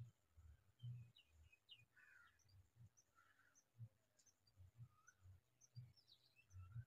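Near silence, with faint, short, high bird chirps scattered throughout and soft low thumps every half second or so.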